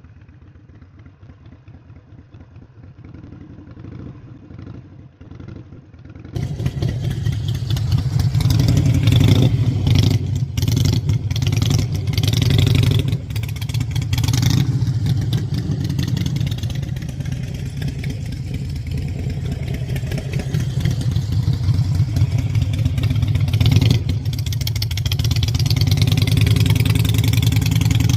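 Harley-Davidson Sportster 883's air-cooled V-twin engine running while the bike is ridden at low speed. The sound is fainter at first, then becomes much louder about six seconds in and stays loud with small rises and falls in throttle.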